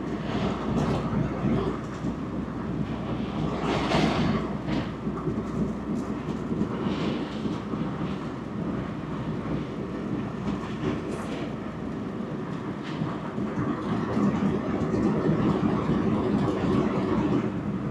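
Heavy surf from a rough storm sea rolling and breaking on the beach: a continuous rumbling rush with a few louder crashes, the biggest about four seconds in.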